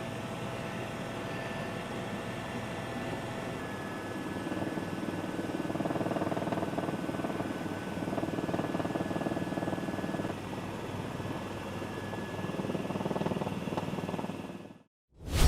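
Helicopter running in flight: a steady turbine whine over rotor and engine noise, swelling slightly now and then and cutting off abruptly near the end.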